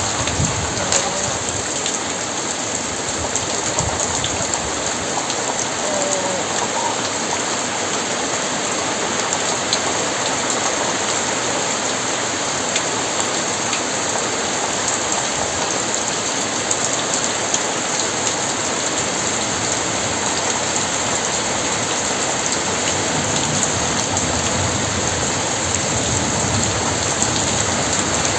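Very heavy rain falling steadily, a dense even hiss with scattered sharper drop ticks.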